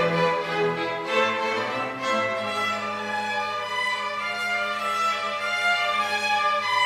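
Violin playing long held notes over a steady low accompanying note that is sustained from about two seconds in.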